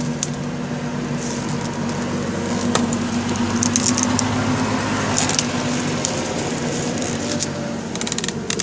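Sticks being laid on a campfire, with scattered sharp crackles and snaps, over the steady hum of a car engine.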